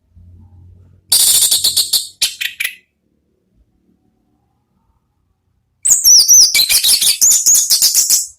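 Orange-headed thrush singing loud, open song: two phrases of rapid high notes and whistled glides, about a second in and again near the end, with a pause between.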